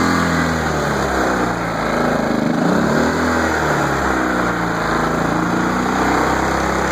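Generac iX2000 inverter generator's small four-stroke engine running just after a pull start, on half choke with the eco throttle switched off, its speed rising and falling unsteadily.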